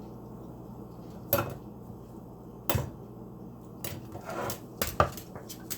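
Eclectus parrot knocking his beak against his food bowl: two single knocks, then a quicker run of knocks from about four seconds in.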